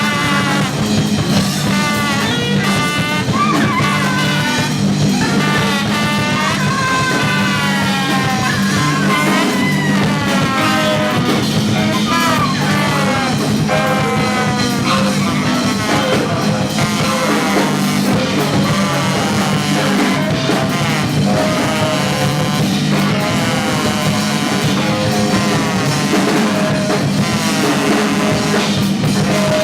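Free jazz quartet playing loud and dense: horn lines bend and swoop in pitch over a steady low drone and drums.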